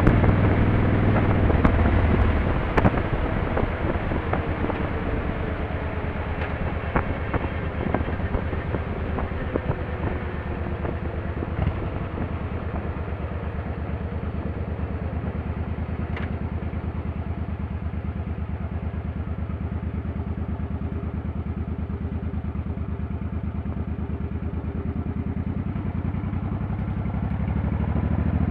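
Motorcycle engine running while riding. It comes off the throttle about two seconds in and the engine note falls as it slows, runs steadily for a long stretch, then rises again near the end as it accelerates.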